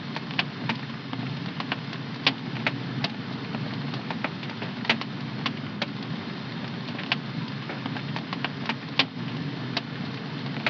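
Wood fire crackling in a home fireplace: irregular sharp pops and snaps, a few much louder than the rest, over a steady low rush of burning flames.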